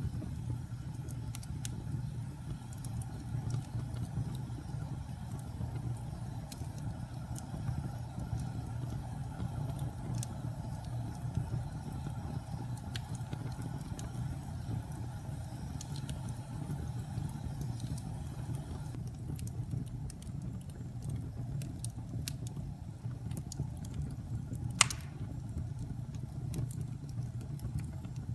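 Wood fire burning in a fireplace: a steady low rumble of flames with scattered small crackles, and one sharp, loud pop near the end.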